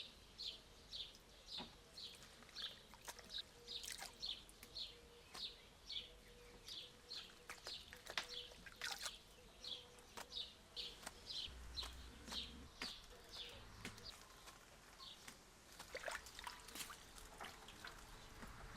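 A bird chirping over and over in an even rhythm, about two to three short chirps a second, stopping near the end, with a few faint clicks.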